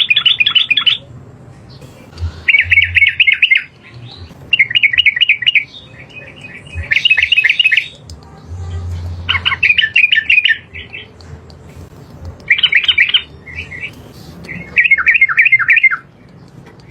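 Yellow-vented bulbul (trucukan) singing: about seven loud, bubbling phrases of rapid notes, each about a second long, coming roughly every two seconds.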